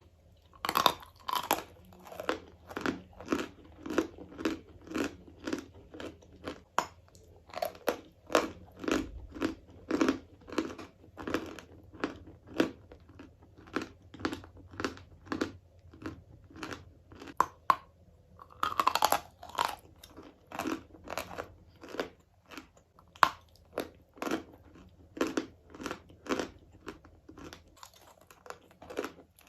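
A person chewing and crunching chalk in the mouth, close up, about two crunches a second. A denser run of crunches comes about two-thirds of the way through, like a fresh bite.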